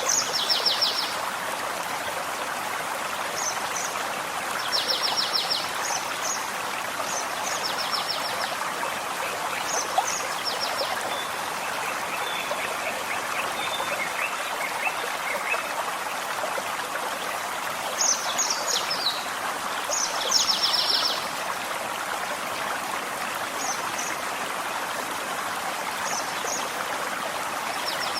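A gentle forest stream flowing steadily, with songbirds singing short, high, quick trills and chips over it every few seconds, and a lower, fainter trill about halfway through.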